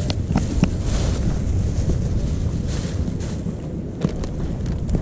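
Wind buffeting the microphone as a steady low rumble, with a few short clicks: three in the first second and one near the end.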